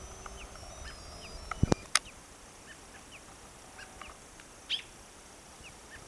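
Small birds chirping: short, falling notes repeated at irregular intervals, with one brief louder call near the end. Two sharp knocks come close together about a second and a half in.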